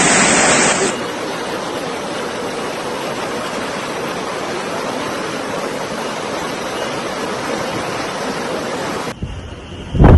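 A steady, unbroken rushing of water, even in level for about eight seconds, with an abrupt change about a second in and another cut near the end.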